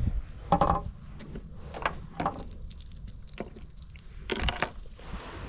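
Fishing tackle clinking and clattering in the hands as lures are picked through and a small square-bill crankbait with its hooks is handled, in a run of short sharp clicks with louder clatters about half a second in and near the end.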